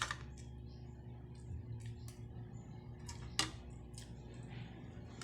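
Scattered sharp clicks and light knocks over a steady low hum, with one louder click at the start and another about three and a half seconds in.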